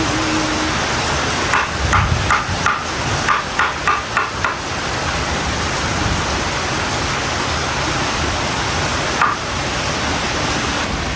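Steady heavy rain hiss, with a quick run of about ten sharp knocks early on and one more knock near the end.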